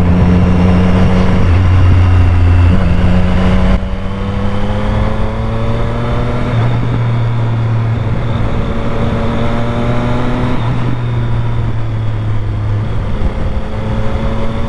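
Triumph Street Triple 765's inline three-cylinder engine and exhaust running under way. The note drops back about four seconds in, then the revs climb slowly for several seconds before levelling off.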